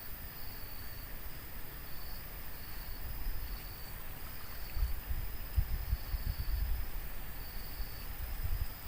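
An insect calling in short, high, repeated trills, about one a second. Under it runs a low rumble that grows louder about halfway through.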